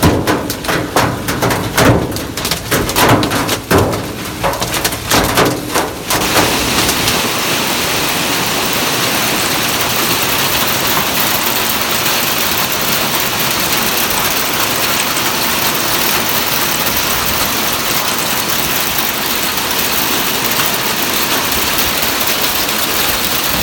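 A hailstorm. For about the first six seconds, hailstones strike a hard surface in loud, separate hits. Then the sound changes suddenly to a steady, dense hiss of hail and rain coming down.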